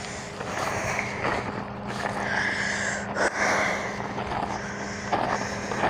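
Vehicle engine running steadily with an even hum, and a hissing, rushing noise that swells for a second or so about two seconds in.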